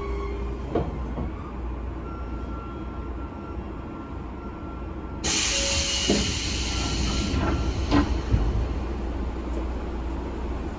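Sotetsu 9000 series electric train coming to a stop at a station, heard from inside the car: a low rumble and a faint high tone from the running gear. About halfway through comes a sudden loud burst of compressed-air hiss lasting about two seconds, then a few clunks as the doors open.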